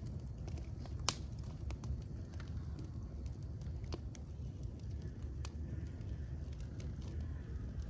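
Wood fire burning with a steady low rumble and scattered sharp crackles and pops, the loudest pop about a second in.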